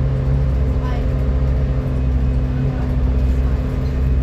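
Volvo B7TL double-decker bus running with a loud 'hoover' sound: a steady, droning hum made of several low tones.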